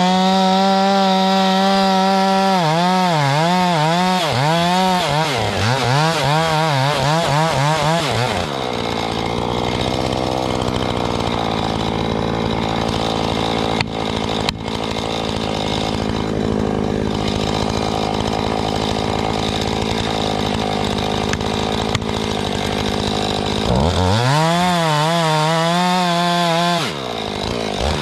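Seesii CH600 cordless mini chainsaw's electric motor running while it cuts into a tree trunk. Its pitch dips and recovers over and over as the chain bites, then holds lower and steadier under load through a long cut, with the pitch wavering again near the end.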